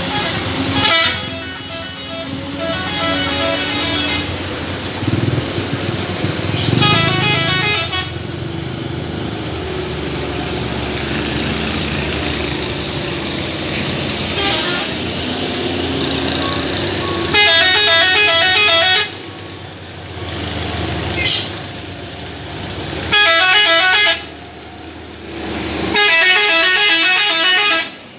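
Heavy-vehicle horns sounding in several blasts of one to two seconds, each warbling in a rapid repeating multi-tone pattern, over the steady noise of traffic and engines.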